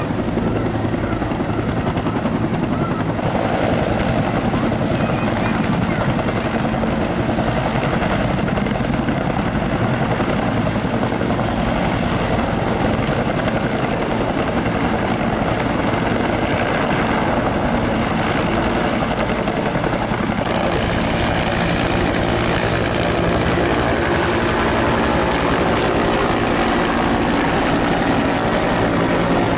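Helicopters in flight: a continuous, steady rotor and engine noise with a fast chopping beat.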